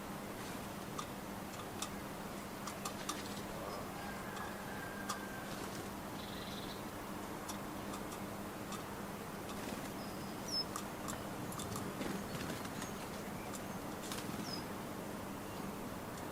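Garden birds at a nut feeder: scattered sharp taps and clicks, with a few short high chirps.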